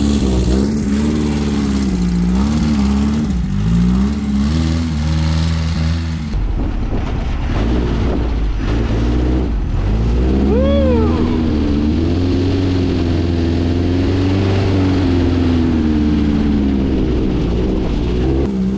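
VW 1600cc air-cooled flat-four engine of a dune buggy running, its speed rising and falling gently, on a carburetor the owner thinks is due for a rebuild. A brief high-pitched cry rises and falls about ten seconds in.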